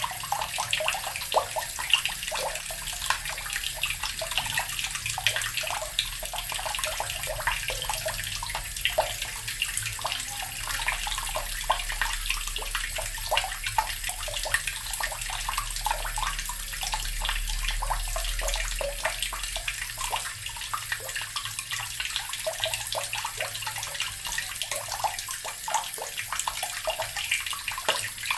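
Water running steadily from a tap, splashing continuously with many small spattering splashes.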